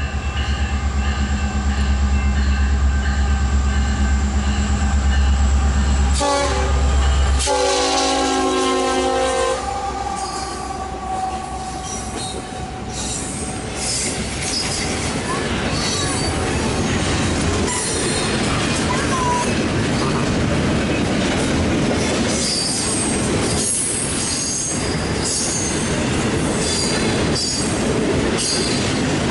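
A Union Pacific locomotive's five-chime Nathan K5LLA air horn blows a long blast over the low rumble of the diesel engines, then a second, shorter blast about seven seconds in as the locomotives pass. The double-stack container cars then roll by with a steady rumble, wheel clatter and intermittent high flange squeal.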